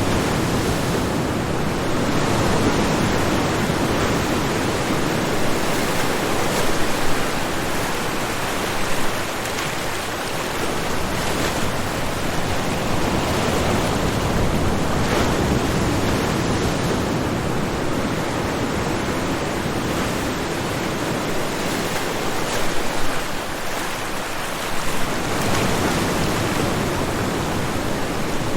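Ocean waves washing onto the shore, a steady rush of surf that swells and ebbs, with a few brief louder surges.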